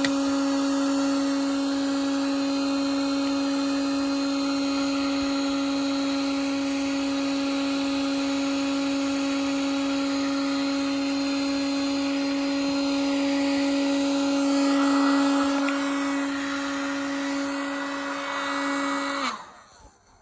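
Black & Decker hair dryer running steadily, a motor whine over rushing air, a little louder about fifteen seconds in. Near the end it is switched off and the motor winds down with a falling pitch. It runs normally, with no complaints about how it works.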